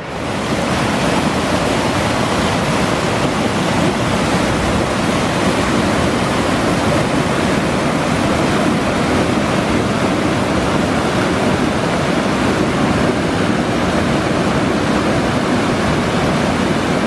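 Steady, loud rushing of a fast-flowing river and cascading waterfall running high with late-winter flow.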